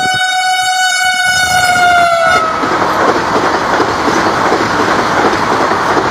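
Vande Bharat express train sounding one long horn note, its pitch falling just before the note stops about two and a half seconds in. The train then passes close by at speed, with a loud, steady rushing noise from the carriages.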